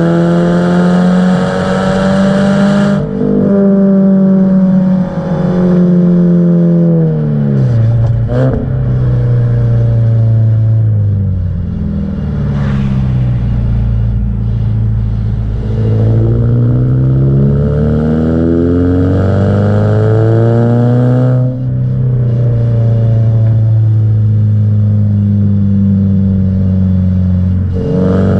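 Subaru Impreza 1.5R's flat-four engine and exhaust under way, the note rising under acceleration. It drops sharply at gear changes about 3 seconds in and again near 21 seconds, and falls off around 8 seconds in to a low, even note before climbing again.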